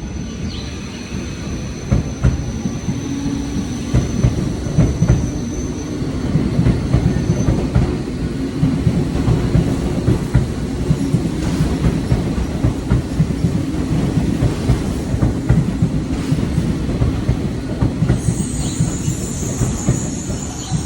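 Tobu 70000 series electric train running on the rails, its wheels knocking rhythmically over rail joints under a steady rumble. A thin high squeal sounds at the start, and a louder high wheel squeal rises near the end.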